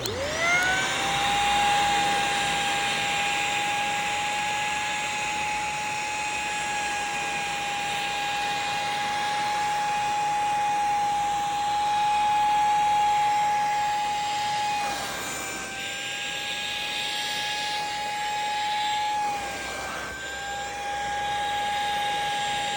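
Handheld mattress vacuum switched on: its motor spins up to a steady high whine over the hiss of rushing air. The pitch dips briefly twice in the second half.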